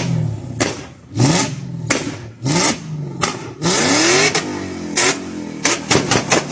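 BMW engine revved in short, rising blips, each cut off with a sharp exhaust bang. Near the end comes a rapid string of exhaust bangs, about five a second, from a two-step launch limiter.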